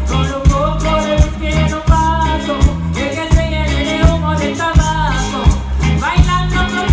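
Live band playing an upbeat Latin song: a melody line over strong drum hits about twice a second.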